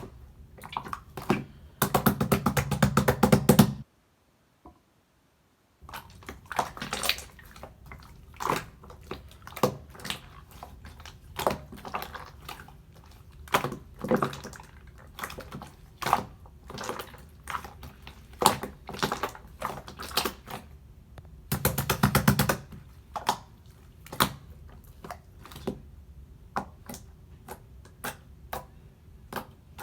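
Grey marbled slime being squished and poked by hand, giving sharp clicks and pops of trapped air. There are two stretches of rapid crackling bubble pops, one about two seconds in and another about two-thirds of the way through, and a brief dead silence after the first.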